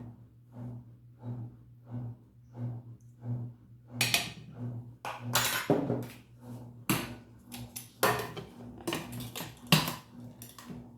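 Dishes, pots and cutlery clattering: a run of sharp knocks and clinks starting about four seconds in, over a faint low pulsing hum.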